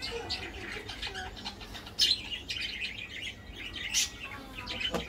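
Small birds chirping over and over, with sharper, louder chirps about two and four seconds in.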